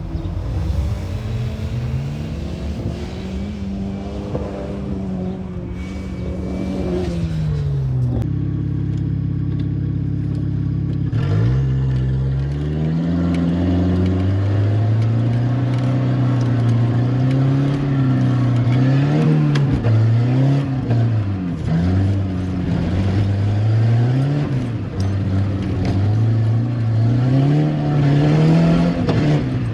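Volvo 740 Turbo's turbocharged four-cylinder engine being driven hard, its pitch climbing and dropping again and again with throttle and gear changes. For about three seconds in the middle it holds a steady low drone, then the rising and falling resumes.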